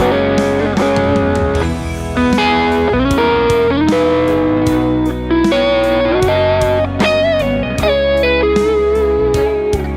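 Fender Custom Shop Telecaster electric guitar playing a lead line of held single notes, some of them bent up and down, over a backing track with a steady drum beat.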